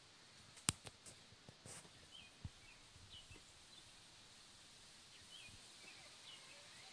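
Quiet outdoor background with faint, short bird chirps every second or so. A few sharp clicks come in the first two and a half seconds, the first one the loudest.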